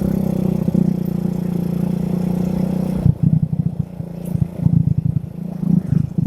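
Yamaha Vega R motorcycle running at a steady speed, heard through a phone carried in a shirt pocket. About three seconds in, the steady hum breaks into a choppy, fluttering sound with rubbing on the microphone.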